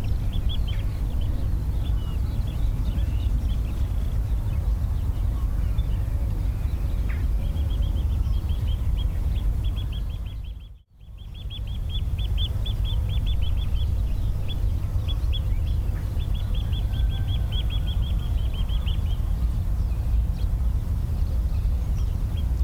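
Outdoor ambience: a steady low rumble with a small bird calling in rapid runs of short high chirps. There is a brief fade to near silence about halfway through.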